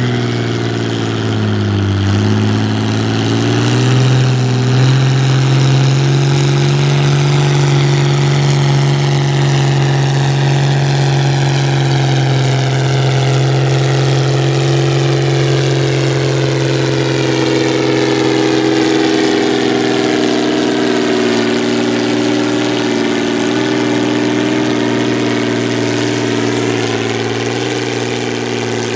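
Pulling tractor's engine running hard and steady under load. Its pitch dips about two seconds in, climbs back and holds, then eases slightly lower in the second half.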